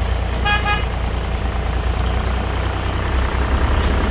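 Diesel engine of a heavy machine running steadily with a deep rumble. A brief high-pitched tone sounds about half a second in.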